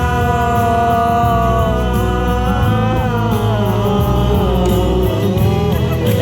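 Live busker's music: a male singer holds the last note of a chorus line for about two seconds over a backing accompaniment with a steady bass, and the instrumental continues after it.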